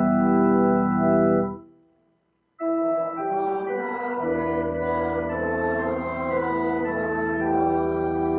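Organ music. A held chord with a pulsing wobble dies away, there is a brief pause, and then a new passage of sustained and moving notes begins, with a low bass line entering about four seconds in.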